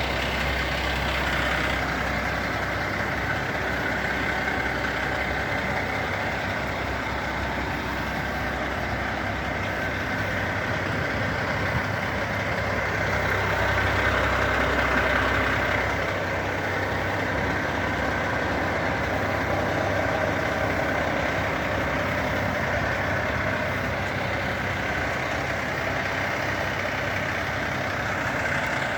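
Diesel engine of a Renault Midlum 270dCi fire truck running steadily, growing a little louder for a few seconds in the middle.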